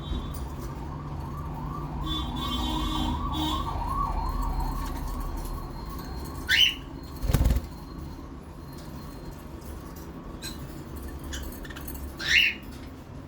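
Pet budgerigars (budgies) in their breeding cage, giving two loud, sharp chirps, one about six and a half seconds in and one near the end, with a short thump just after the first chirp.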